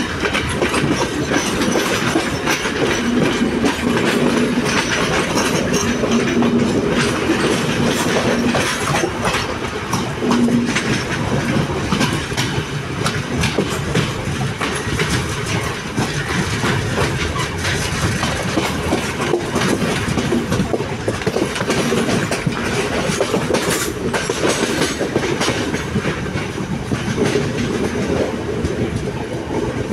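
Sri Lanka Railways S11 diesel multiple unit running along the track, heard from its open doorway: a steady rumble with the wheels clacking over the rail joints.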